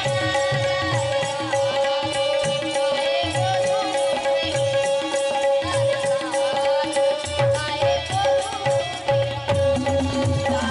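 Marathi bhajan music without singing: a melody over a steady held drone, with drum strokes and the rapid jingles of a khanjari frame drum.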